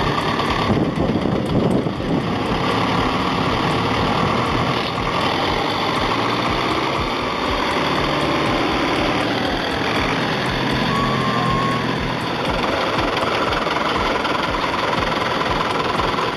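Tractor engine running steadily under load while pulling out a tractor stuck deep in soft field soil.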